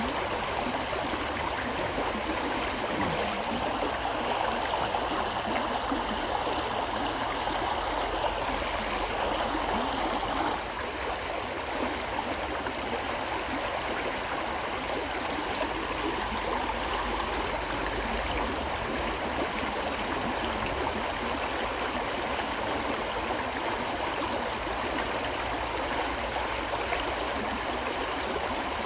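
River water flowing steadily, a gentle rush with gurgling. The level dips slightly a little past ten seconds in.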